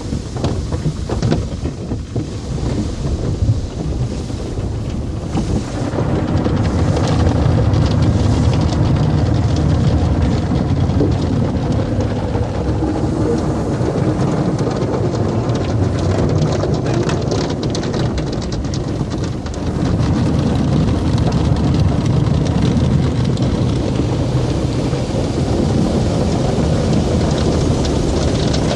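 Automatic car wash heard from inside the car: water spray drums on the body and windows in a steady, loud, rain-like rush with a deep rumble beneath.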